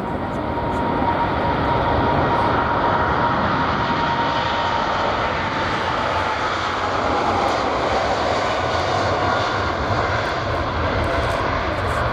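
Boeing 747 jet engines running loud and steady, with a whine that slowly falls in pitch over the first several seconds.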